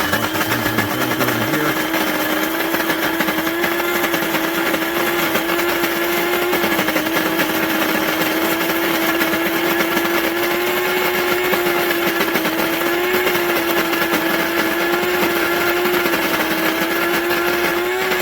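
Electric burr coffee grinder running its grind cycle, its motor turning the burrs as they crush coffee beans: a steady whine over loud grinding noise.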